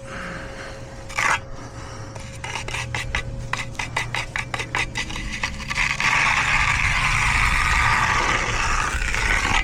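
Hand finishing tool scraping over fresh wet concrete: one short scrape, then a run of quick back-and-forth strokes, then a long continuous scrape near the end.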